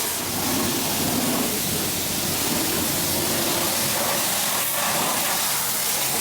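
Car wash pressure wand spraying a steady stream of water on the rinse cycle, a constant hiss.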